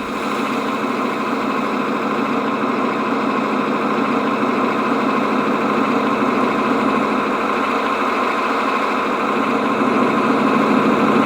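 Idling truck-engine sound from a Servonaut SM7 RC sound module, played through its small speaker as a steady run that grows a little louder over the seconds while its bass and treble are adjusted on the module's equalizer.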